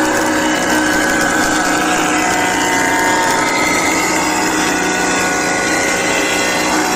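A woodworking power tool running steadily: a dense, unbroken machine noise with a few steady tones.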